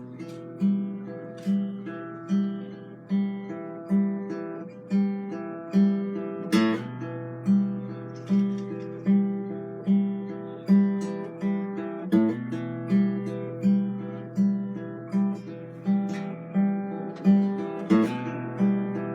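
Acoustic guitar music: a slow, even picked pattern, a little more than one note a second, over a low bass note that changes about every six seconds.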